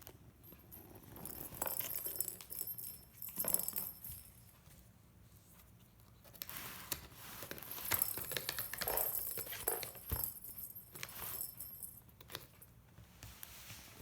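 A cat's toy jingling and rattling as a cat plays with it, in two bouts, the second longer.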